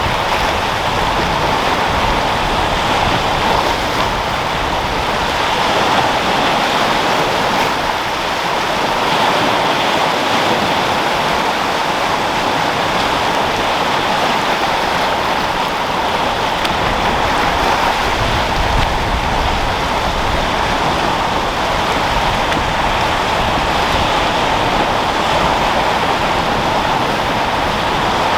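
Sea waves rolling and breaking in a steady wash of surf, slowly rising and falling, with wind blowing.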